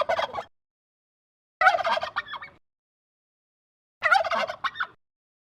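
Turkey gobbling: a gobble fading out just after the start, then two more, each about a second long and about two and a half seconds apart.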